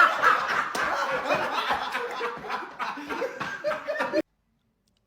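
People laughing, which cuts off abruptly about four seconds in.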